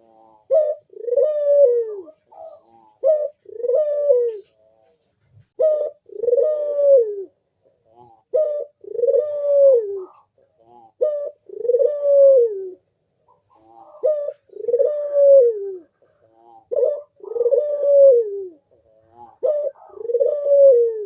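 Ringneck dove (burung puter) cooing over and over, each call a short note followed by a longer coo that falls in pitch, repeating every two to three seconds.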